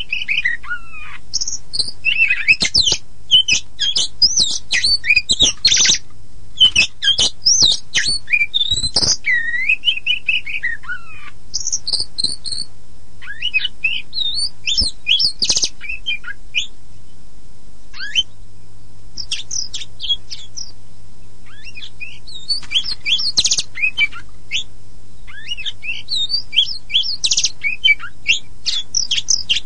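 Oriental magpie-robin (kacer poci) singing a fast, varied song of gliding whistles and harsh chattering notes, pausing briefly a little past the middle, over a faint steady low hum.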